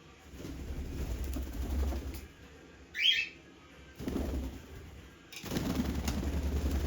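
Pet parrot flapping its wings in bursts of fluttering, with one short, sharp call about three seconds in.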